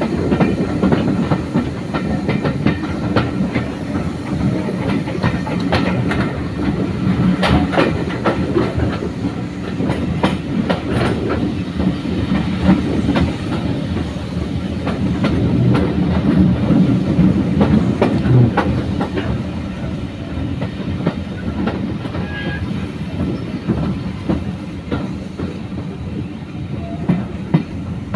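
Steam-hauled heritage train's coach running along the line with a steady rumble, its wheels clicking over the rail joints.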